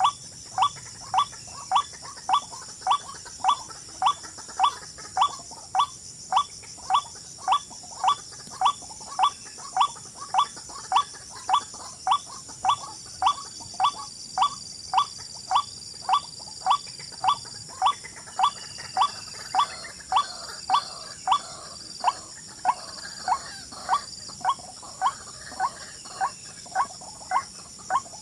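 An animal call repeated very evenly, about twice a second, over a steady high insect drone. A thin high whistling tone joins in the middle and breaks into short notes later on.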